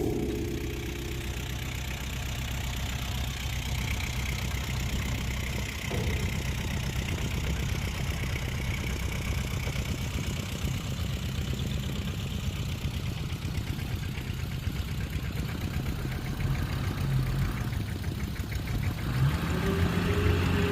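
Heavy diesel earthmoving machine's engine running steadily at low revs, picking up in revs near the end.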